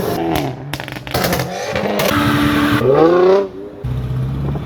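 Car engine being revved repeatedly, its pitch climbing hard about three seconds in, then dropping back to a steady idle near the end.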